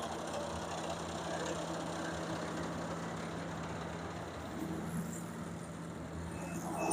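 Rice combine harvester's engine running at a steady, even pitch.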